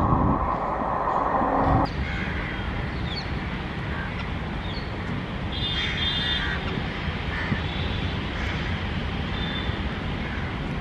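A loud rushing noise that cuts off abruptly about two seconds in, then the steady rumble of an approaching WAP-7 electric locomotive and its express train, with crows cawing several times over it.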